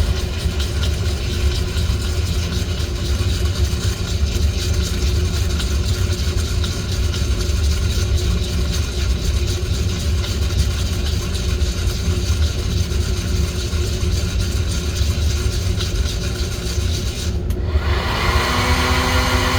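Small-batch coffee roasting equipment running with a steady motor-and-air noise. About two seconds before the end the noise breaks off briefly and a steadier hum with a clear tone takes over.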